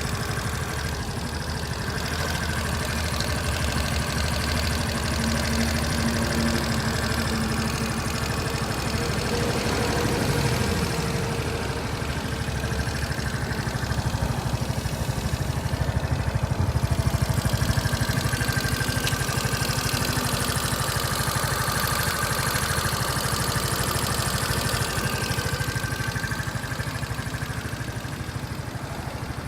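Suzuki Swish 125 scooter's single-cylinder engine running with an abnormally loud mechanical noise, on a new machine with under 100 km on it. A brief fall in pitch comes about ten seconds in.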